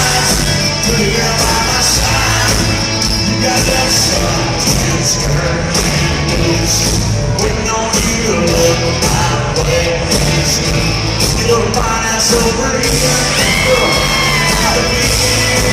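Live country-rock concert music, loud, with singing and yells from the crowd.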